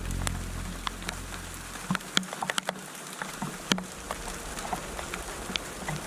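Rain dripping: scattered, irregular drops tapping on surfaces over a faint hiss. A low hum fades out about two seconds in.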